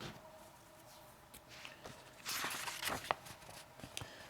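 Paperback picture book being handled and a page turned: scattered soft clicks and a short papery rustle about two seconds in.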